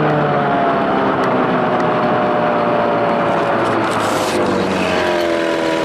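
1993 Evinrude two-stroke outboard, a 25 hp built up to 35, running at speed with wind and water noise. Its pitch sags a little over the first few seconds, then holds steady. It is pushing the boat slower than expected, which the owner puts down to weeds fouling the motor.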